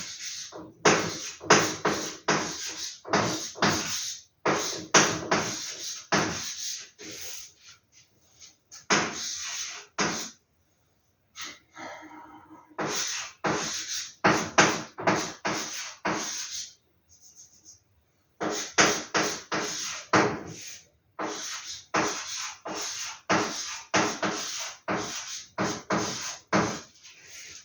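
Rustling and crinkling of paper and packaging being handled during an unboxing of vintage movie posters, in quick clusters of crackles with short pauses.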